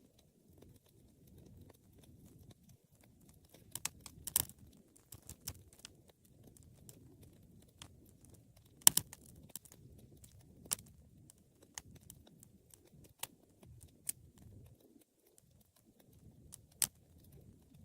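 Wood fire crackling, with irregular sharp pops, the loudest a quick double pop about nine seconds in, over a soft low rumble of the flames.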